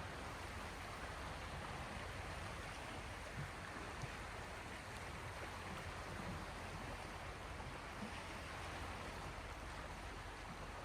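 Gentle waves of the Gulf of Finland lapping at the shore: a steady, even wash of water with a few faint soft splashes.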